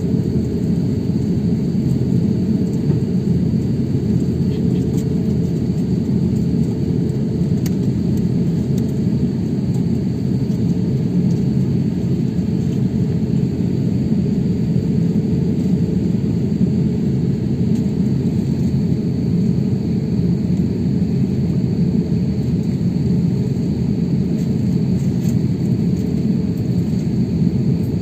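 Steady low rumble of an airliner's cabin noise after landing, even and unbroken.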